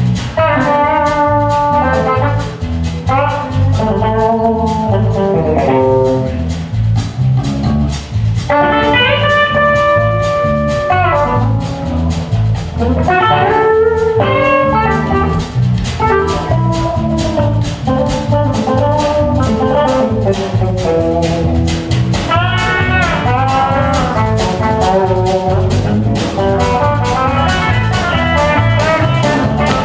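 Band music with no singing: a guitar-led instrumental passage over a steady drum beat, the lead line bending in pitch here and there.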